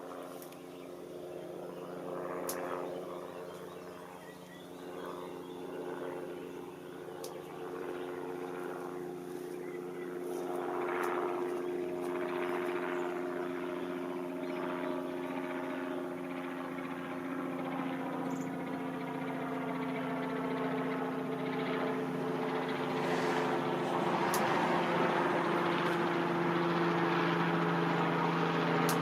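Propeller aircraft flying overhead, a steady engine drone that grows louder, with a few faint clicks.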